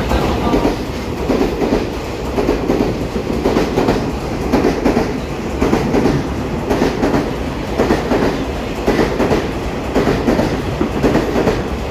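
A twelve-car EMU3000 electric multiple unit pulling out of the station alongside the platform, its wheels clattering over the rail joints in a steady, repeating rhythm over a continuous rumble.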